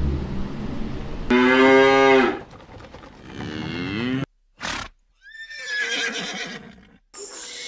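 Several short farm-animal calls cut together back to back, with abrupt breaks between clips. The loudest is a drawn-out call about a second and a half in, followed by a wavering call, a brief one near the five-second mark, and a falling high-pitched call after that.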